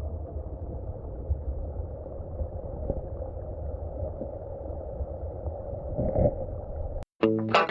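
Muffled, steady rumble of creek water heard with the camera held underwater, with a few faint knocks. About seven seconds in it cuts off and distorted electric guitar music begins.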